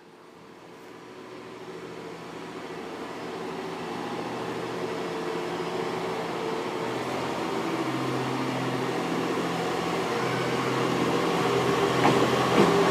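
JR East GV-E400 series diesel-electric railcar set, its engine and drive humming with several steady low tones and growing steadily louder as the train draws nearer.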